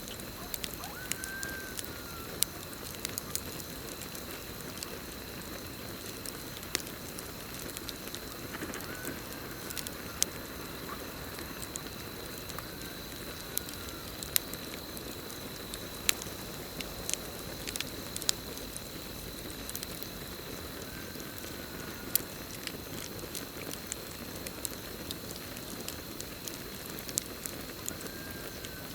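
Campfire burning, with an even hiss of flame and frequent sharp irregular pops and crackles. Behind it, crickets keep up a steady high trill, and a faint short rising-and-falling call comes back a few times.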